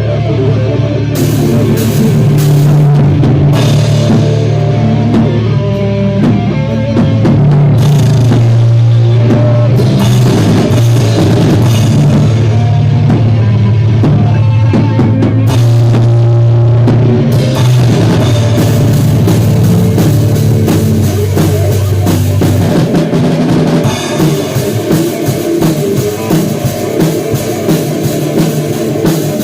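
A live rock band playing a song, with drum kit, bass and electric guitar, loud and somewhat distorted. The sustained low bass drops out about three quarters of the way through, leaving a choppier drum-and-guitar passage.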